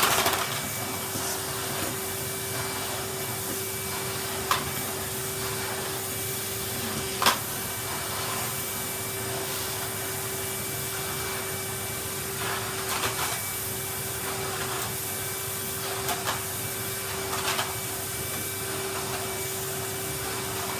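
Vacuum cleaner running steadily on a carpet, a constant hum with a steady tone. Two sharp knocks come about 4 and 7 seconds in, and a few short rustling patches follow later as the head is pushed about.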